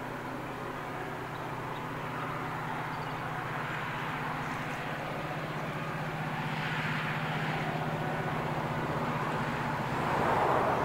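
A G class diesel-electric locomotive powers past hauling a loaded aggregate train, its engine giving a steady low drone. Wheel-and-rail rumble builds and swells loudest near the end as the wagons roll by.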